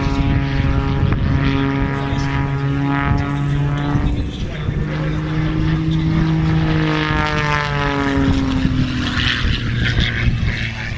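Propeller airplane engines flying past, a steady droning hum whose pitch slides as the aircraft go by.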